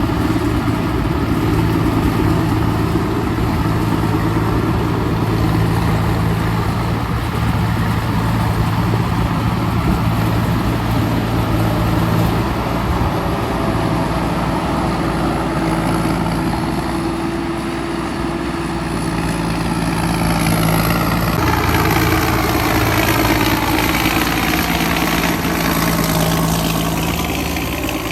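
Engine of a rotary soil-tilling machine running steadily with a constant low hum. From about two-thirds of the way in, a sweeping, phasing sound rises and falls over the engine noise.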